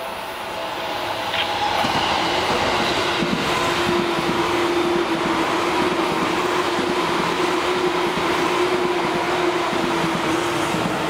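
Yellow Seibu Railway electric commuter train passing close by on curved track, growing louder over the first two seconds, with a steady pitched tone held through most of its pass.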